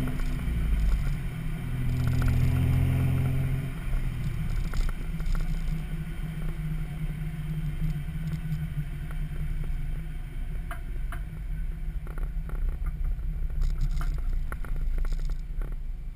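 Toyota 3.4-litre 5VZ-FE V6 running through a Flowmaster 40 muffler and a 4-inch exhaust pipe, a deep exhaust note. It is louder for the first few seconds, then drops at about four seconds in and settles to a steady, lower drone, with a few light clicks near the end.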